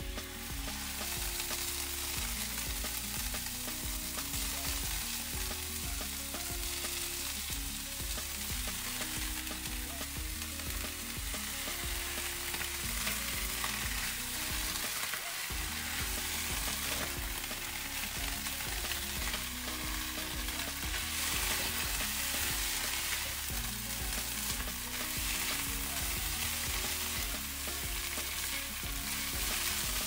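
Konjac rice and vegetables sizzling steadily in a hot nonstick frying pan as they are stir-fried and tossed with a spatula.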